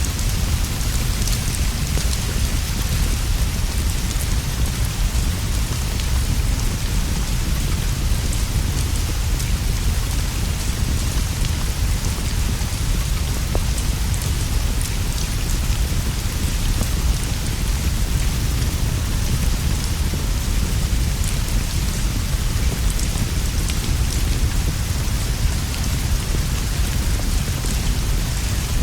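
Steady rain falling, with a constant low rumble underneath and scattered faint ticks.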